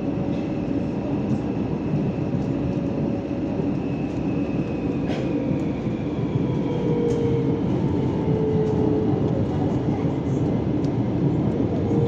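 Electric commuter train running between stations, heard from inside the carriage: a steady rumble of wheels on rail, a whine that drifts slowly in pitch, and a few faint clicks.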